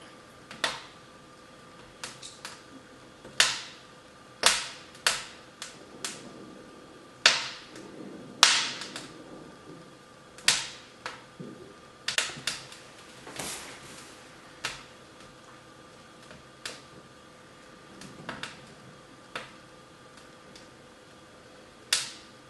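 Wood fire crackling, with irregular sharp pops and snaps of burning firewood, a few of them loud.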